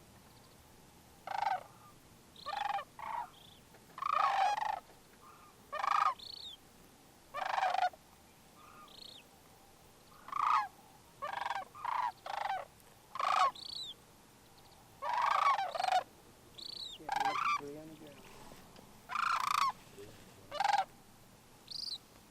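Sandhill cranes giving rattling calls, one short call every second or so, with a few short higher notes in between.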